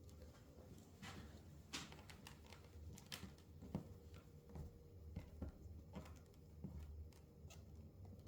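Faint, irregular clicks and light taps of small parts being handled during brake caliper assembly, over a low steady hum.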